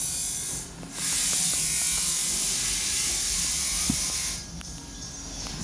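Kawasaki Ninja ZX-25R's 250 cc inline-four revved high through an aftermarket racing exhaust. The revs dip briefly just under a second in, are held for about three seconds, then fall away near the end.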